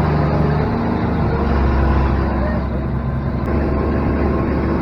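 Engine of a large 4x4 monster truck running as it drives, a loud, deep, steady drone.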